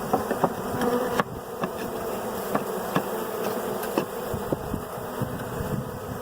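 A cloud of honeybees buzzing in flight around a freshly installed hive, a steady hum with individual bees passing close by. Several short, sharp clicks are scattered through it.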